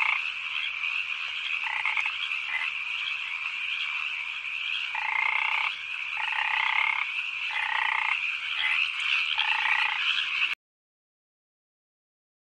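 Chorus of frogs calling: a dense, steady din of many voices, with louder croaks repeating every second or so. It cuts off suddenly near the end.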